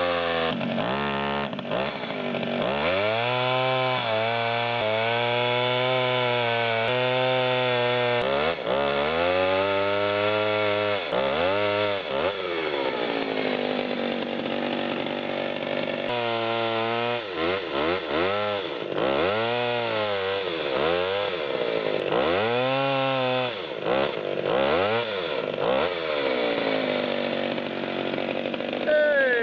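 Gasoline chainsaw cutting through a log, its engine repeatedly revving up and dropping back as the throttle is squeezed and eased, with a steadier lower stretch about halfway through. The engine pitch falls away as the throttle is released at the end.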